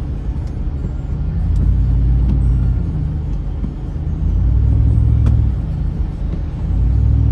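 Car cabin road noise while driving in heavy rain: a low rumble of tyres on wet pavement that swells louder three times.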